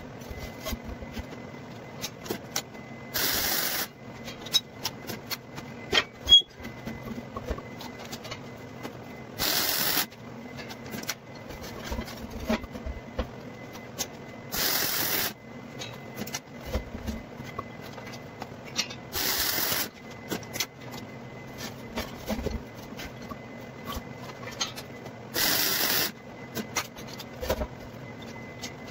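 Electric welder striking five short welds, each a burst of hiss lasting under a second, roughly every five to six seconds, with small clicks and handling noises between them.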